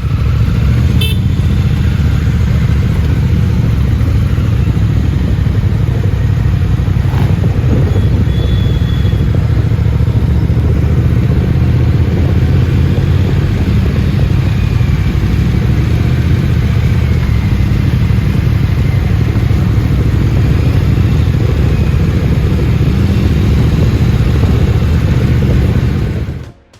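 Motorcycle engines running steadily on a group ride, a constant low engine rumble.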